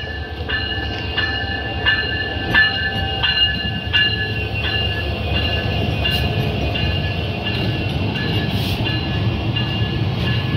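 Meter-gauge diesel-hauled passenger train passing close by: steady locomotive and running-gear rumble, with wheels clacking rhythmically over the rail joints, about one clack every 0.7 s, each with a thin high ringing. The clacks grow closer together and softer in the second half as the coaches go by.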